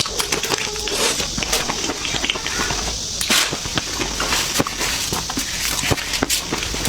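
Eating at a table: scattered clicks and clatter of utensils and dishes, with no speech.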